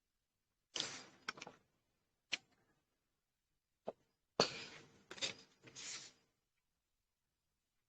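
A few short rustling and handling noises with two sharp clicks between them.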